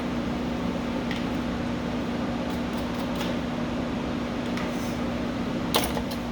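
Electric pet clippers running steadily with an even hum. There is a sharp click near the end.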